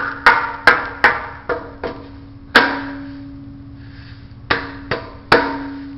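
A hollow steel tank knocked about ten times, each knock leaving a ringing hum. The knocks come quickly at first, with the loudest and longest ring about two and a half seconds in, then a pause before three more knocks near the end.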